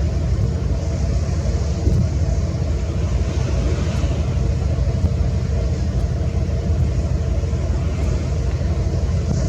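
Steady low rumble of a cruise ship under way at slow speed, with wind noise on the microphone.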